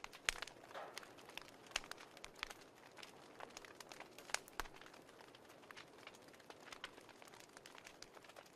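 Wood fire crackling: irregular sharp pops and snaps over a faint steady hiss, with a louder pop about a third of a second in and another a little past four seconds.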